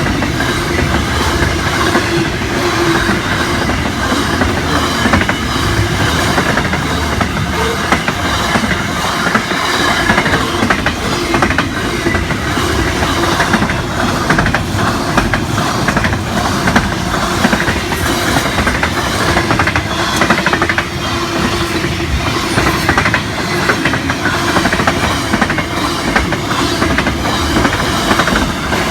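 Long freight train's wagons rolling past close by at steady speed, wheels clacking rhythmically over the rail joints, with a faint steady ringing from the wheels and rails.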